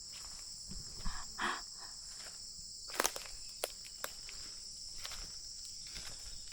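Steady high-pitched chorus of rainforest insects, with a few scattered crunches and snaps of footsteps in the undergrowth, the sharpest about three seconds in.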